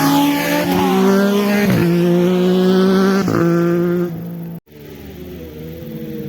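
Motorcycle engine at full throttle, pulling through the gears with two quick upshifts about a second and a half apart. The sound then drops away and cuts out abruptly, after which a quieter engine sound continues.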